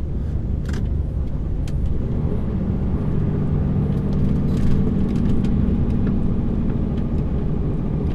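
Diesel engine of an articulated lorry running while driving, heard from inside the cab, its low hum growing stronger a couple of seconds in. A few light clicks and rattles sound over it.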